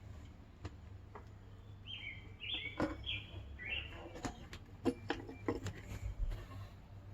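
Small bird chirping: about four short, high chirps in quick succession around two seconds in, with several sharp taps scattered through the middle.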